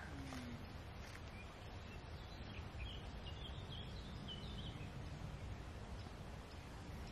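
Quiet outdoor ambience: a steady low background rumble with small birds chirping, a quick run of short high chirps in the middle.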